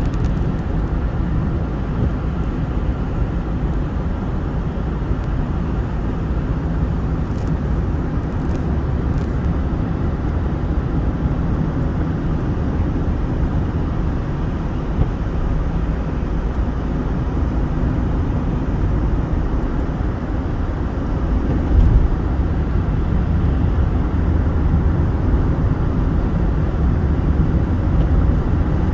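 Snowstorm wind blowing steadily and rumbling on the microphone, with a stronger gust about two thirds of the way through.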